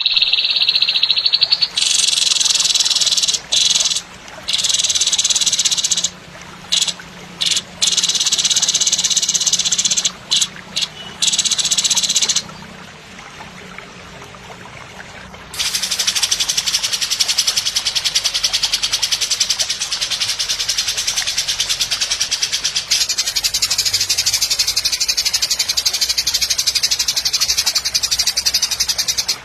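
A murai's harsh, rasping song: a dense, very rapid buzzing trill, high-pitched. It comes in stop-start runs of a few seconds for about the first twelve seconds, then after a short pause runs on almost unbroken.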